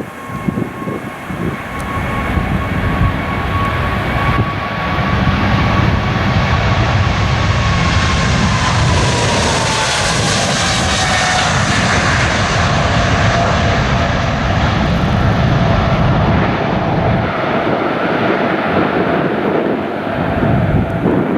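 Jet airliner on its take-off run and climb-out, passing close by: a loud, steady engine noise with a high whine that falls in pitch around nine to twelve seconds in as the aircraft goes past.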